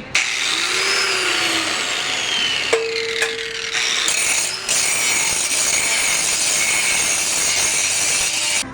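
Grinder grinding down welds on steel plate: a steady harsh grinding noise, with a whine that falls in pitch between about one and three seconds in.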